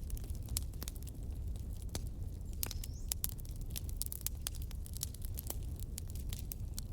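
Wood logs burning in a fireplace: irregular sharp crackles and pops, several a second, over a steady low rumble of the flames.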